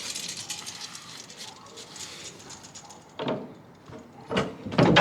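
Canopy cover and frame being taken down: a sudden high scraping rasp of fabric or a zip, then a few knocks and a louder rattling clatter of the frame near the end.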